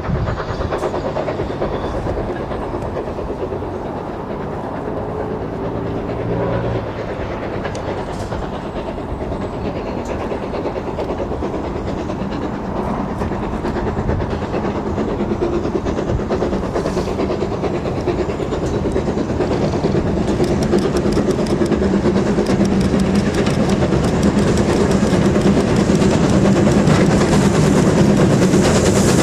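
Steam-hauled train running on the line, growing steadily louder, with a rapid clickety-clack of wheels over rail joints building up in the last third.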